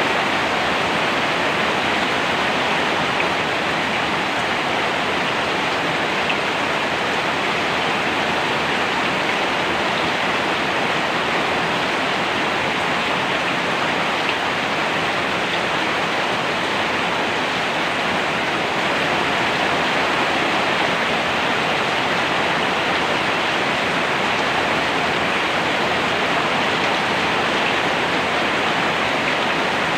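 Steady heavy rainfall: an even, unbroken hiss with no single drops standing out.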